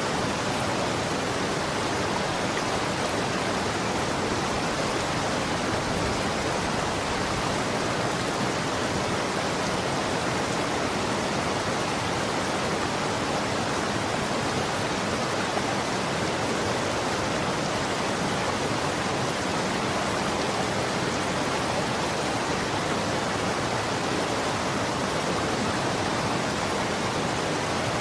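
Running water flowing steadily, an even, unbroken rushing sound.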